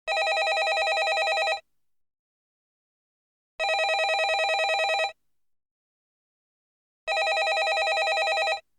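Landline telephone ringing: three rings of about a second and a half each, separated by pauses of about two seconds. Each ring is a rapid, fluttering trill.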